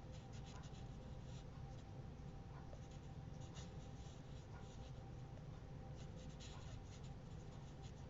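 Felt marker tip rubbing and scratching across cardstock in short strokes, in a few bunches of strokes, over a steady low room hum.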